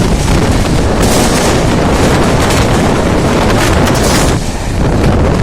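Loud rushing rumble of a train running at speed close to the microphone, with wind buffeting the microphone; the high hiss eases a little near the end.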